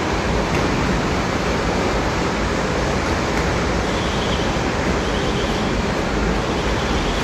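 Steady, loud rushing noise of factory machinery running in a marble resin plant, even and unbroken.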